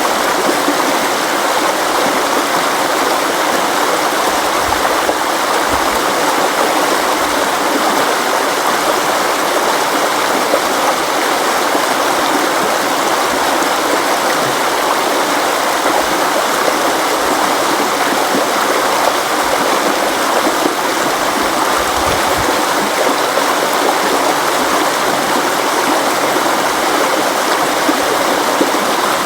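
River water flowing over rocks, a steady even rush with no breaks.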